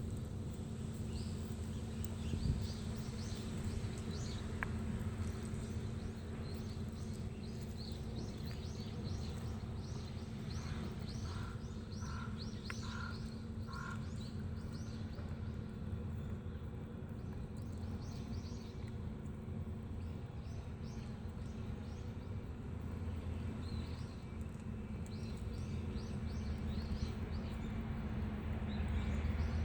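Outdoor ambience: birds chirping over a steady low hum, with a short run of four repeated call notes near the middle.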